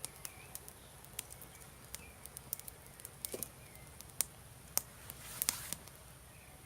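Newly lit small campfire crackling faintly, with irregular sharp pops, while birds chirp in short calls. A brief rush of noise comes about five and a half seconds in.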